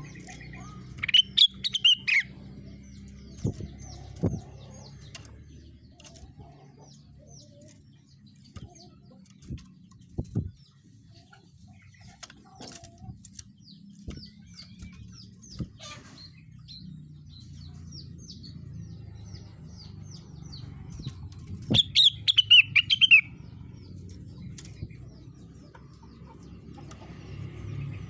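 A rengganis songbird singing. Two loud bursts of quick, falling notes come, one about a second in and one about 22 seconds in, between stretches of faint, short chirps.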